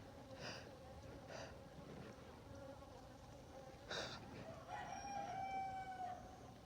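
A faint, steady hum of honeybees around an open hive. A sharp knock comes about four seconds in, and a rooster crows once in the background soon after, one call of about a second and a half.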